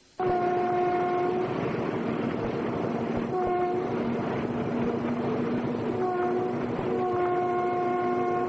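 Train horn sounding four times, a long blast, two short ones and another long one, over the steady rumble of the train running on the rails.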